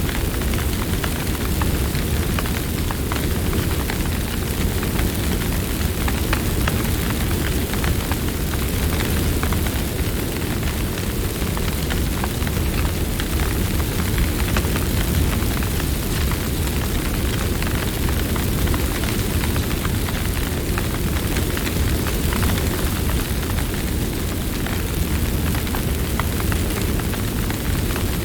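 Campfire burning: a steady low rushing of the flames with frequent small crackles and pops.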